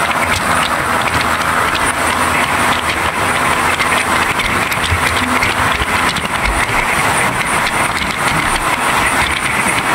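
Passenger train running at speed, heard at an open carriage window: a steady loud rush of travel noise with constant rattling of the wheels and carriage on the track.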